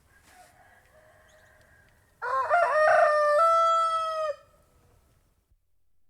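Rooster crowing once, a single cock-a-doodle-doo of about two seconds that climbs in short steps and then holds a long level final note, cutting off sharply. A fainter, more distant rooster call is heard at the start.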